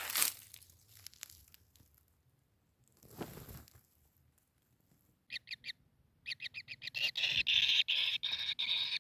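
Kingfisher calling: four short sharp notes about five seconds in, then a fast run of repeated harsh notes that grows louder through the last few seconds. Brief rustling sounds come before the calls.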